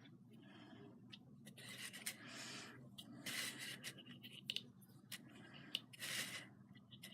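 Faint rubbing and scraping of hands working craft materials, in a few short rustles with small ticks between them.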